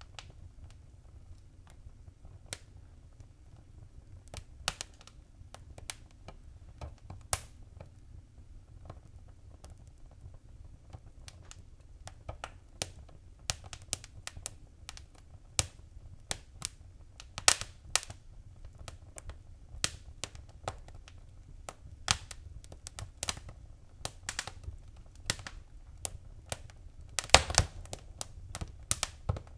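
Wood fire burning in a fireplace: irregular sharp crackles and pops over a steady low rumble of the flames. A burst of louder pops comes near the end.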